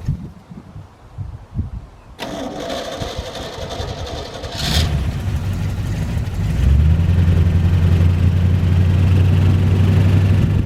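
1973 Chevy K20 pickup's engine being cranked by the starter, catching about four and a half seconds in, then revving up and settling into a steady run.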